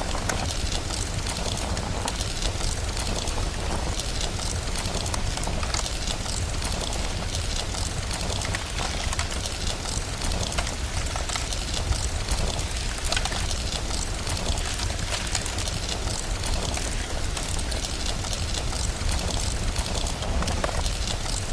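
Steady rain hiss over a constant low rumble, sprinkled with many small, sharp crackles like a wood fire.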